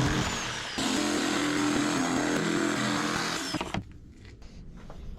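Electric angle grinder running hard against steel, with a steady high whine under the grinding noise. It dips for a moment under a second in, then runs on and is switched off about three and a half seconds in, leaving a few small knocks.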